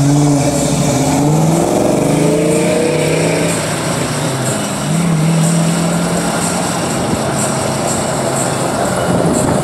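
Car engines on a busy road: one engine accelerating, its note rising over the first three seconds or so, then a steadier engine note a couple of seconds later, over continuous traffic noise.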